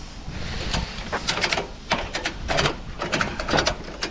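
Bursts of quick ratcheting clicks and rattles from a ratchet strap being cranked tight to secure the load on a lorry trailer.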